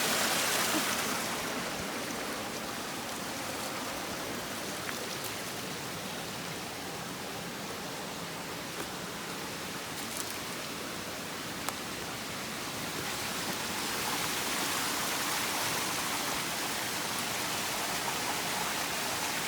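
Stream water rushing over rocks: a steady rush that eases a little in the middle and swells again in the last few seconds, with a few faint clicks.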